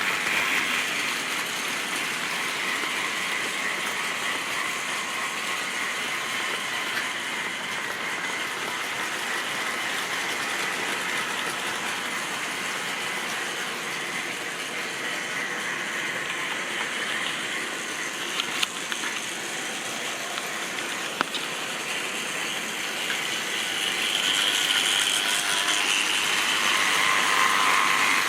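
Model railway train running on the track: a steady whirring and rattling of the locomotive's motor and gears and the wagons' wheels on the rails. Two sharp clicks come about 18 and 21 seconds in, and the sound grows a little louder near the end.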